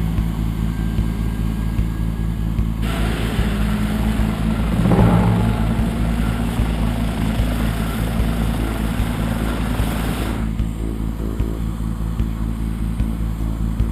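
Helicopter engine and rotor running steadily in a hover, a constant low drone with a rushing noise over it that grows about three seconds in and eases about ten seconds in.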